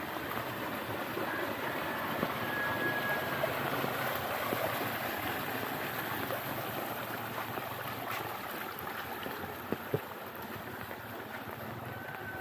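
Steady rain falling, a dense patter of drops, with two sharper drips close together about ten seconds in.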